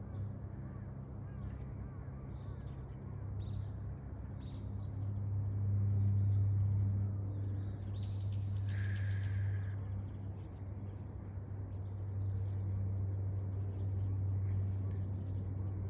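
Birds chirping on and off over a steady low hum, with one louder, longer call about nine seconds in.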